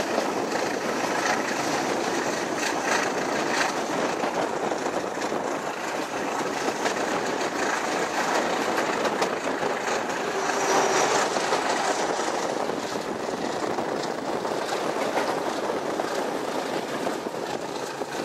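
Passenger train behind a CP 1400 Class English Electric diesel locomotive running at speed, heard from an open carriage window: a steady rush of wheel, rail and wind noise with faint rail-joint clicks.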